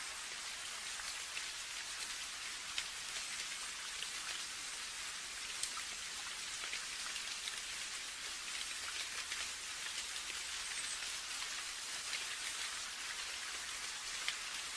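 Steady rain: an even hiss with many individual drops ticking sharply throughout.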